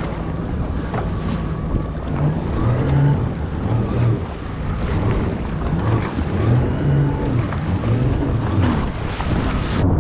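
Jet ski engine running, its pitch rising and falling with the throttle, with wind buffeting the microphone and water rushing and splashing.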